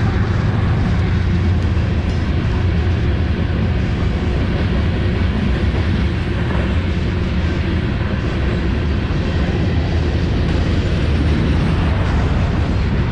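Diesel freight train passing, a steady low rumble of locomotive engines and rolling cars.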